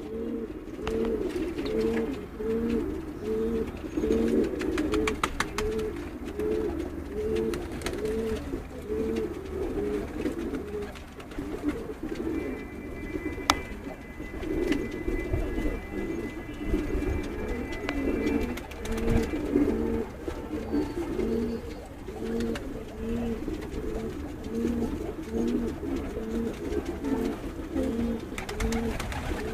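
Several domestic pigeons cooing continuously, their low cooing phrases overlapping.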